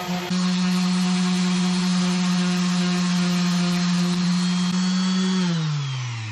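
Electric sander running steadily while sanding a walnut board, then switched off about five seconds in, its motor winding down with a falling pitch.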